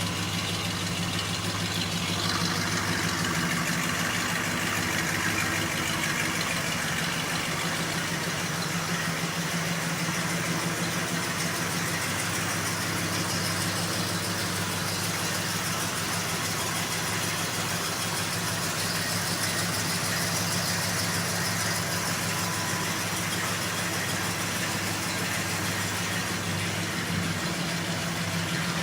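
1973 Buick Riviera's 455 V8 engine idling steadily, its idle speed turned down from a very high setting.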